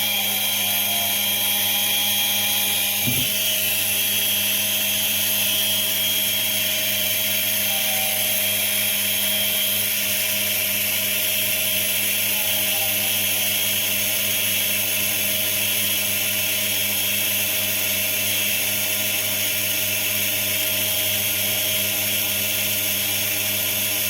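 Repaired treadmill DC motor running steadily on the bench at about 115 volts of its 130-volt rating: a steady hum with a high brush hiss, running normally. A single brief knock about three seconds in.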